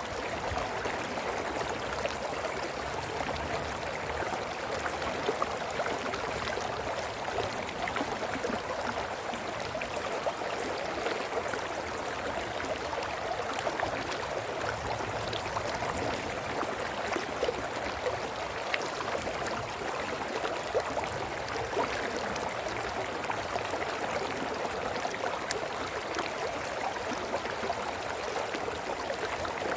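Brook running steadily over stones: continuous babbling and gurgling water, with small splashes and drips.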